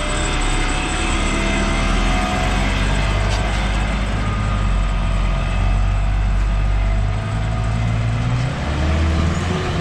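Jeep Cherokee's engine running steadily with a deep hum, its note changing about seven seconds in.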